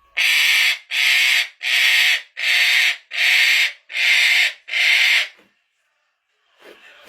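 Eclectus parrot screaming in a temper tantrum: seven loud, harsh screeches in a steady rhythm, about one and a half a second, then a pause of about a second near the end.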